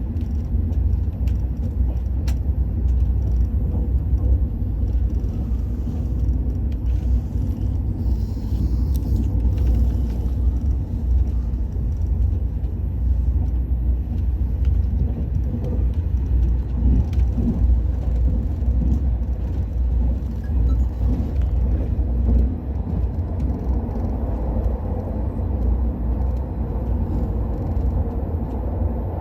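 Cabin noise of the Al Boraq high-speed train running at speed: a steady deep rumble with a few faint clicks and rattles.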